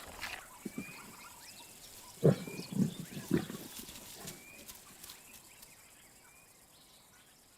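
A lion feeding, with a few short low grunting sounds about two to three and a half seconds in. Behind them a faint, short rising chirp repeats every second or two.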